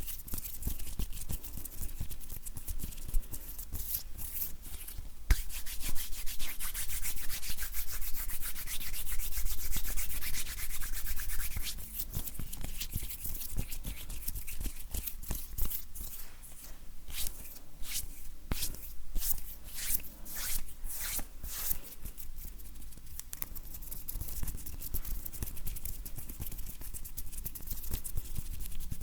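Dry bare hands rubbing together close to the microphone: a papery rustle of skin on skin. It begins as steady rubbing, then about two-thirds of the way through turns into a run of separate quick strokes.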